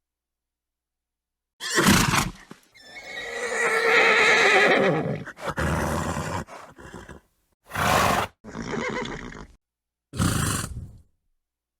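A horse whinnying and snorting. A short snort comes about two seconds in, then one long wavering whinny that falls away at its end, followed by three more short snorts with silence between them.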